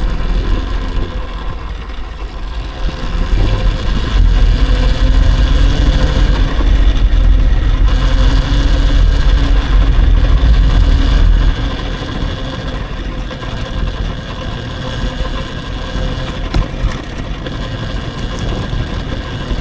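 Electric dirt bike under way, a faint steady motor whine under heavy wind rumble on the microphone; it is louder for several seconds and eases off a little past halfway.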